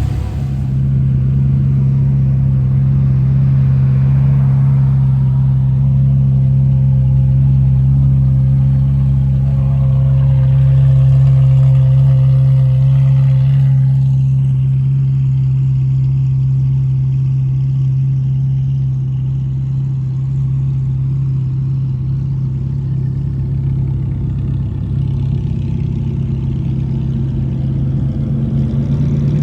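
Car engine idling steadily, a constant low hum that holds one pitch throughout. A fainter, higher noisy sound over it dies away about halfway through.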